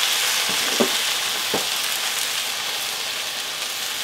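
Diced peppers, onion and garlic sizzling in a hot wok with vegetable broth just added, a steady hiss with three short pops in the first two seconds.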